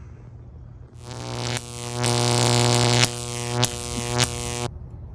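Loud electrical-sounding buzz at one steady low pitch, starting about a second in and cutting on and off abruptly several times before stopping near the end.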